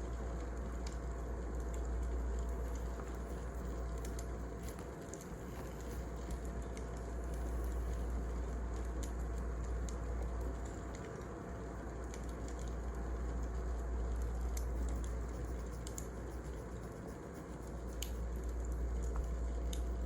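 Wood fire burning, with irregular sharp crackles and pops over a low rumbling hiss that swells and eases every few seconds.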